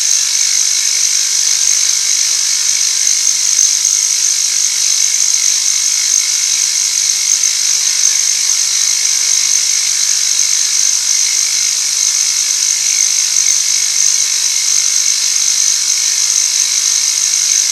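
Machine tool running steadily while taking a light cut on a metal workpiece: an even, high-pitched whir with a low hum underneath that holds unchanged throughout.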